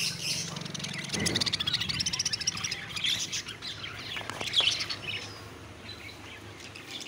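Caged budgerigars chattering and chirping rapidly, busiest in the first few seconds and thinning out near the end.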